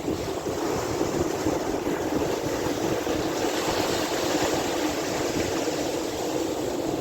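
Steady rush of sea water with wind buffeting the microphone, an even low rumble without distinct wave breaks.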